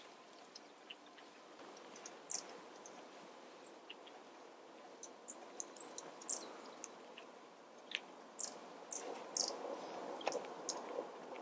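Small wild birds giving short, high call notes, scattered at first and coming more often in the second half, over a soft background rustle that grows louder toward the end.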